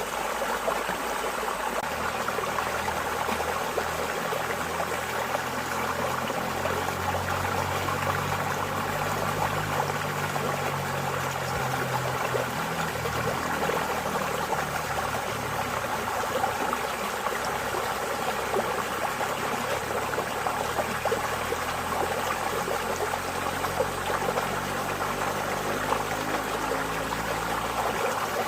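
Water flowing steadily in a stream, an even rushing with fine trickling and bubbling throughout.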